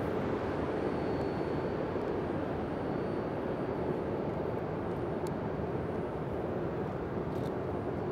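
E5 series Shinkansen train running beside the platform: a steady rumbling rush that eases off slightly toward the end.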